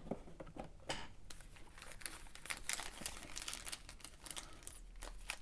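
Plastic wrapper of a trading-card pack crinkling and tearing as it is opened by hand, a quick run of irregular crackles.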